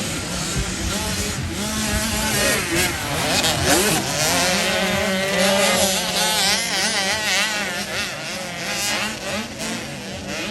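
Dirt bike engines revving up and down on the throttle, their pitch rising and falling throughout.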